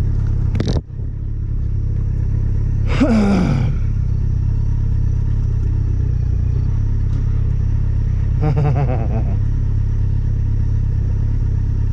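Wind buffeting the camera's built-in microphone on a moving motorcycle, a loud steady low rumble. It drops out for a moment about a second in, and a short sound gliding down in pitch cuts through about three seconds in.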